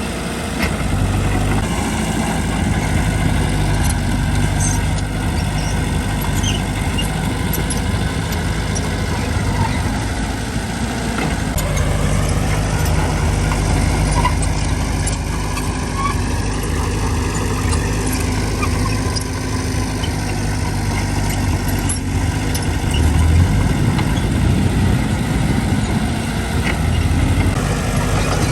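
Diesel engine of heavy earthmoving machinery running steadily, its pitch rising and then falling once near the middle.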